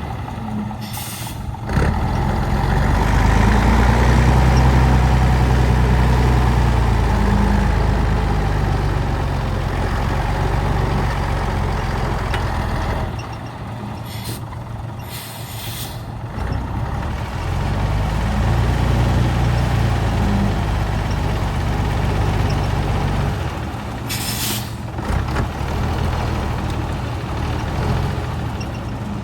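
Old heavy truck's engine pulling hard, swelling up and easing off twice, with four short air-brake hisses: about a second in, twice in the middle, and once near the end.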